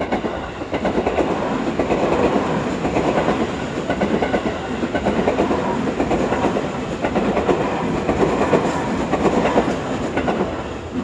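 Seibu Ikebukuro Line electric commuter train passing close by, its wheels clattering over the rail joints in a quick, steady run of clicks.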